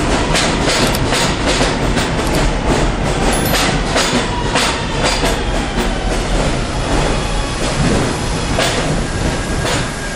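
New York City subway train running on the rails: a steady rumble with frequent wheel clicks over rail joints and a faint steady whine.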